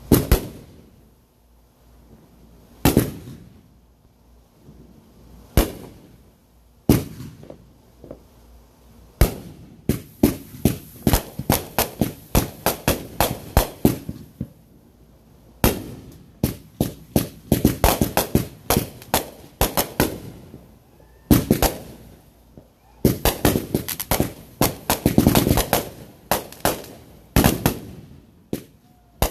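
Consumer fireworks going off. Single loud bangs come a few seconds apart at first, then three long runs of rapid bangs fired in quick succession.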